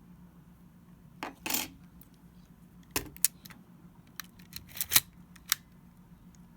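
Small metal tool clicking and scraping against the parts of a Canon A-1 camera's opened mechanism: a short scrape about a second in, then a string of scattered sharp clicks, over a faint steady low hum.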